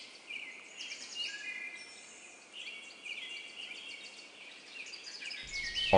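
Outdoor wildlife ambience: many short high chirps and trills from small animals, layered, with no low sounds beneath.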